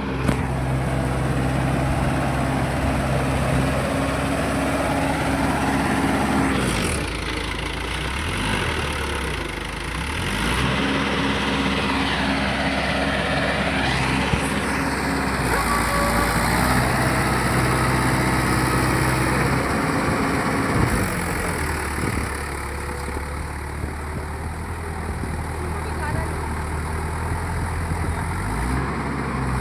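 Mahindra 585 tractor's diesel engine running steadily, its pitch changing a few times as the engine speed shifts.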